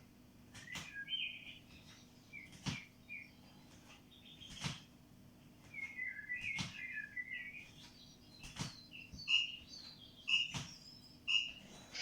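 Birds chirping, with a short knock about every two seconds, in time with feet stepping down during a step-back leg-raise exercise.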